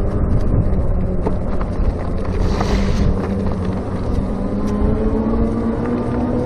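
Electric bicycle under way: wind rushing over the microphone and tyre noise, with a steady low hum that rises slightly in pitch near the end.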